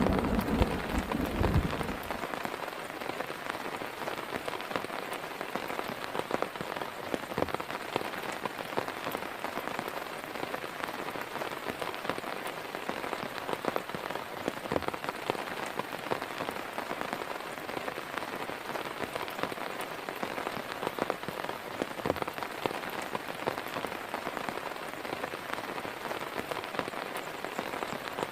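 Heavy rain falling steadily, with many separate drops tapping on a surface. A low thunder rumble dies away in the first two seconds.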